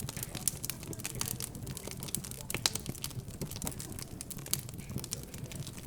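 Wood fire in a fireplace crackling, with irregular sharp pops and snaps several times a second.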